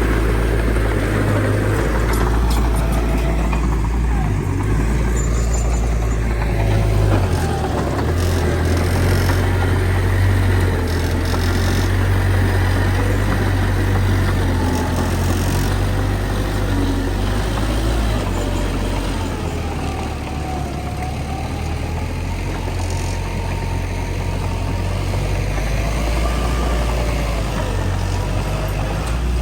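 Heavy diesel earthmoving machinery running continuously: a loud, steady low engine rumble that eases slightly about two-thirds of the way through, with faint wavering pitch changes as the engine load shifts.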